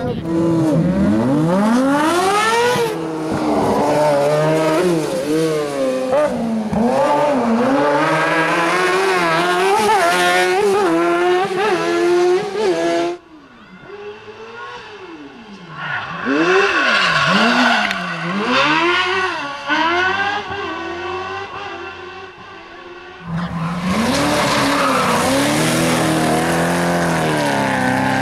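Rally car engines revving hard, the pitch sweeping up and down again and again through gear changes and throttle lifts. About halfway through the sound cuts off suddenly to a quieter stretch of revving, then a loud engine comes back abruptly near the end.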